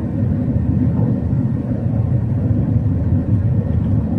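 Steady low rumble of engine and airflow noise inside the cabin of an Airbus A380-800 on approach, with a faint steady hum above it.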